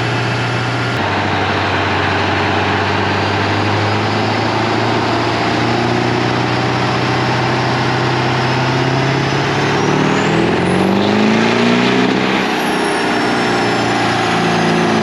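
Diesel pickup truck engine running hard and loud, with a high turbo whine that rises about two-thirds of the way in and then falls away as the engine pitch shifts.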